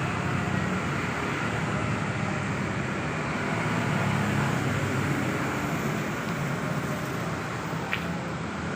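Steady motor-vehicle noise with a low hum, and a single short click near the end.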